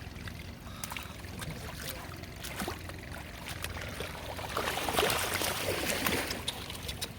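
Shallow water splashing and trickling, with scattered small clicks and a louder stretch of splashing about five to six and a half seconds in.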